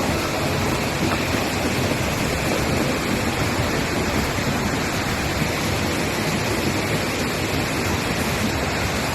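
Steady, unbroken rushing roar of a fast-moving torrent of water and debris, even in level throughout.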